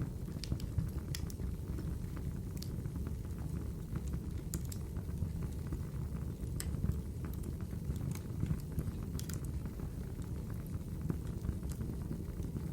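Wood fire crackling in a fireplace: a steady low rumble of burning with scattered sharp pops and snaps, several of them louder, about a second in, near the middle and toward the end.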